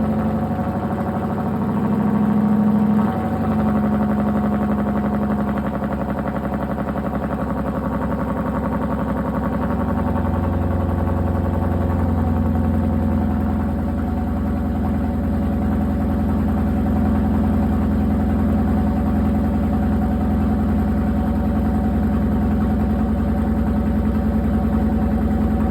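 Ford Crown Victoria's V8 idling steadily just after a cold start, its idle settling a little lower about three seconds in.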